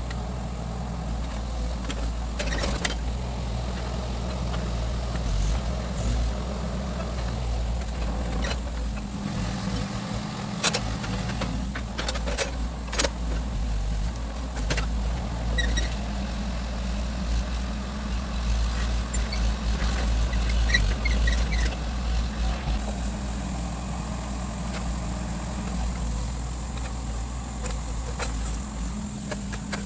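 Excavator's diesel engine running steadily with a low drone, with occasional sharp knocks as it loads rubberwood logs onto a lorry.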